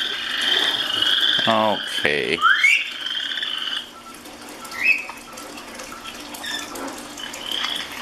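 Parrot making raspy, croaking, buzzing calls for about four seconds with a few short rising squeaks, then only a couple of brief chirps.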